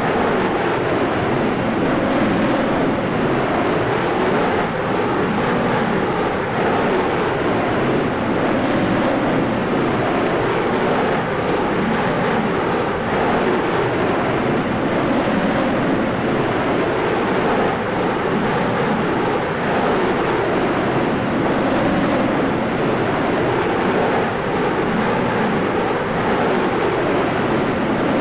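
Steady, loud rush of airflow and aircraft engine noise picked up by a camera mounted on the outside of a military aircraft's fuselage in low-level flight, unchanging throughout.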